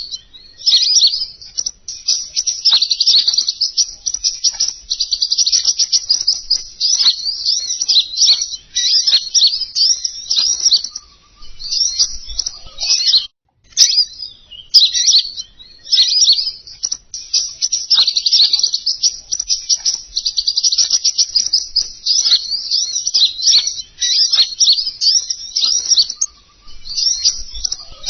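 Recorded lure song of the king konin bird: dense, rapid high trills and chirps, breaking off briefly about halfway through before a similar phrase sequence starts again.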